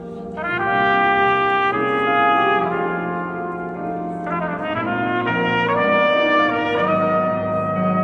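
Trumpet playing a slow melody of held notes, each changing about once a second, over lower sustained accompanying tones.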